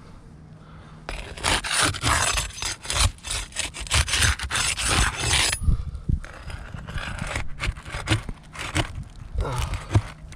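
A tool scraping and prying under roof shingles to work the roofing nails loose, in repeated rough strokes with short knocks. The scraping starts about a second in and eases off briefly about two-thirds of the way through before picking up again.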